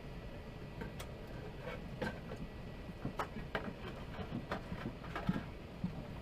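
Airliner cabin ambience before take-off: a steady low hum of the aircraft's air systems, with scattered light clicks and knocks from the cabin, about two a second and irregular.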